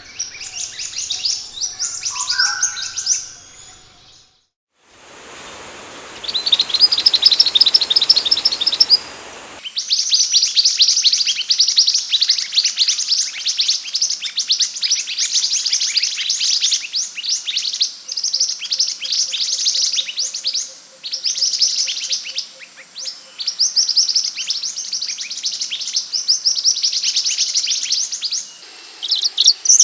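Scarlet minivet (sepah hutan) calling in long runs of rapid, high chirps with short breaks between runs. The recording is spliced: about four seconds in it drops out for a moment, then comes back over a hissy background for a few seconds before the chirp runs continue clean.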